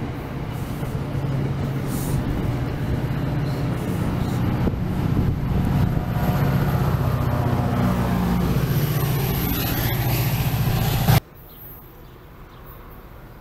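A diesel locomotive's engine running, growing steadily louder as the train draws near, then cut off abruptly about eleven seconds in, leaving quieter background.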